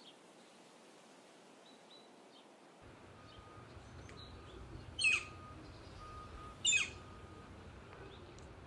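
Northern flicker giving its loud, downward-slurred "kyeer" call twice, about a second and a half apart, with fainter chirps of other birds between.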